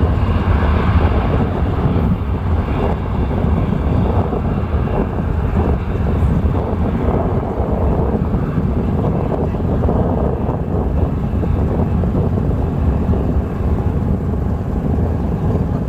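Steady low rumble of a small fishing boat's engine running, with wind buffeting the microphone.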